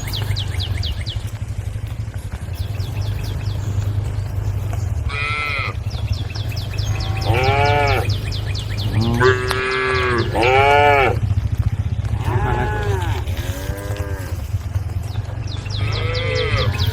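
Cows calling: a series of short, rising-and-falling moos, several in quick succession through the middle, over a steady low hum.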